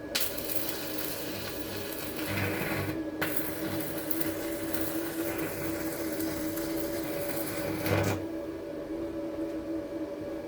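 Electrical arc from a high-current source of about 150 A, crackling and buzzing over a steady electrical hum. The arc breaks off briefly about three seconds in, strikes again, and stops after a loud flare-up about eight seconds in, leaving only the hum.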